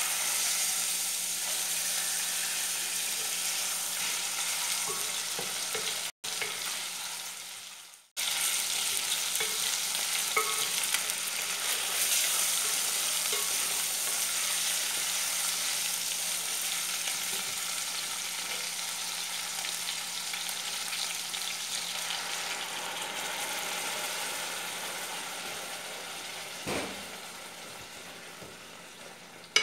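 Chicken pieces sizzling as they fry in a pot on an electric stovetop, stirred with a wooden spatula. The sizzle cuts out briefly twice about six and eight seconds in, dies down over the last few seconds, and there is a single knock near the end.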